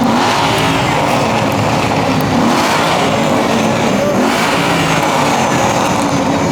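Muscle car V8 engine running hard and revving, loud and continuous, its pitch wavering up and down.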